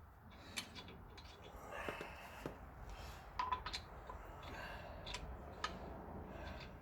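Scattered light metallic clicks and clinks of wheel hardware being handled, with a few sharper knocks in the middle and near the end.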